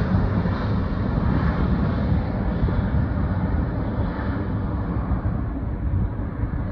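Jet engine noise from a UPS Airbus A300F4-622R freighter's twin Pratt & Whitney PW4158 turbofans as it climbs away after takeoff: a low, steady rumble that slowly fades as its higher tones drop off.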